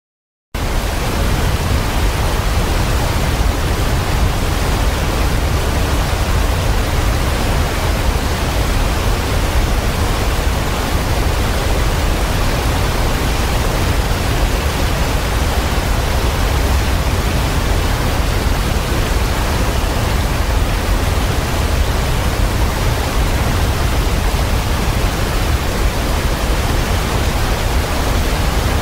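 Waterfall: a dense, steady rush of falling water that cuts in abruptly about half a second in, after digital silence.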